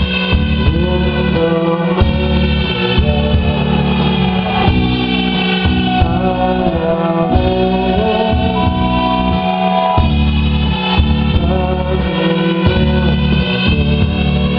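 Live band music with sustained chords over a bass line, played by electric guitar, synthesizer and bass.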